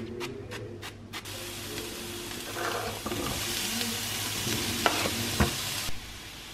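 A few short spritzes of pump cooking-oil spray into a non-stick frying pan, then chopped onion and pepper and minced beef sizzling in the pan, the sizzle louder from about three seconds in. A wooden spoon stirs and knocks against the pan twice near the end, and the sizzling cuts off suddenly about six seconds in.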